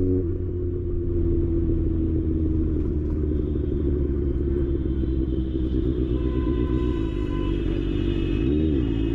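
Kawasaki ZX-6R's inline-four engine running at low revs in road traffic, a steady low rumble. A few higher steady tones join after about six seconds, and the pitch wavers briefly near the end.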